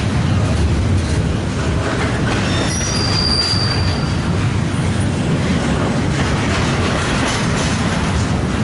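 Freight train rolling past, with a steady rumble of wheels on rail and a brief high-pitched wheel squeal about three seconds in.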